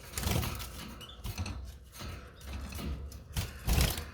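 Irregular knocks, rustles and creaks of handling, with the loudest knock about three and a half seconds in.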